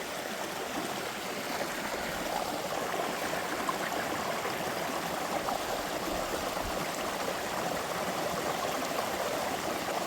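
A small upland brook flowing steadily over rocks, a continuous rushing babble of water.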